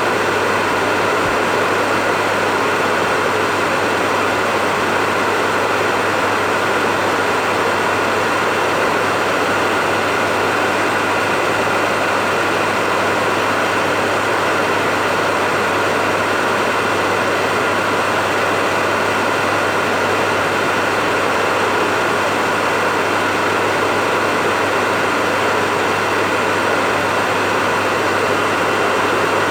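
Hair dryer running steadily: a constant whooshing rush of air over a low motor hum and a faint steady whine, with no change in speed.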